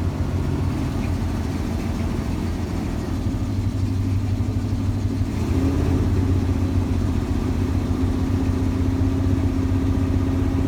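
Square-body 3500 dually truck's 350 small-block V8 idling while still cold, its idle and level rising slightly about halfway through. The owner doubts the cold engine will keep running without its high idle set.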